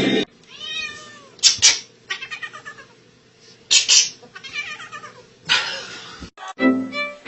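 A domestic cat meowing several times, with short, loud, sharp sounds about a second and a half in and again near four seconds.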